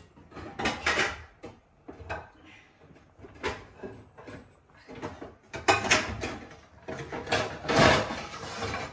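Kitchen cupboard doors and drawers being opened and shut, with cookware knocking and clattering as a pot is got out: a series of irregular knocks and clunks.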